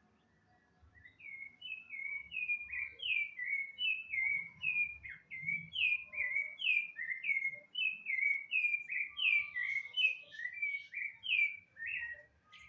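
Rufous-bellied thrush (sabiá-laranjeira) calling a long, regular run of clear, falling whistled notes, about two to three a second, starting about a second in and stopping near the end.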